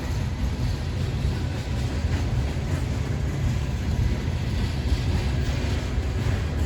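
Freight train rolling past at a crossing, a steady low rumble of wheels on the rails.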